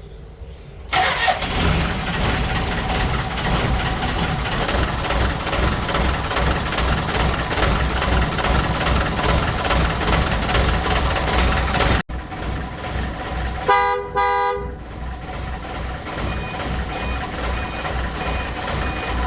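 A motor vehicle's engine starts running about a second in and keeps up a loud, steady rumble. Around two-thirds of the way through, a horn sounds once for just under a second, and a faint high-pitched beeping repeats near the end.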